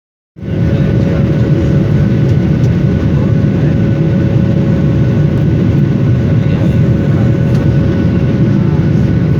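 Steady cabin noise of an airliner in flight: a loud, even rumble of engines and airflow with a constant hum over it.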